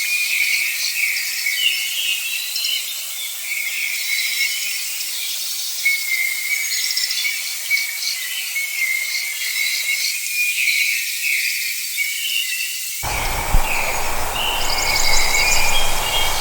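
Dense, continuous high-pitched insect chorus with scattered bird calls mixed in. Near the end a low rumbling noise joins in.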